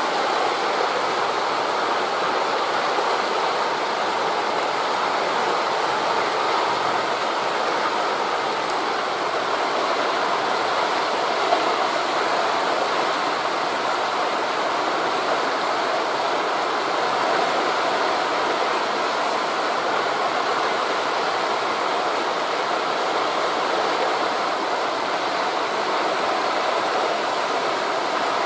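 Steady rushing of wind through the trees mixed with distant surf, even in level throughout.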